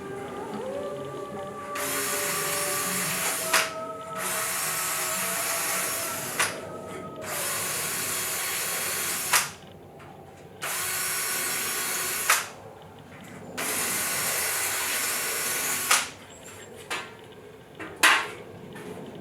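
A power drill run in five bursts of about two seconds each, speeding up at the start of each run, as used for deburring holes. A few sharp clicks and knocks of metal parts being handled follow near the end.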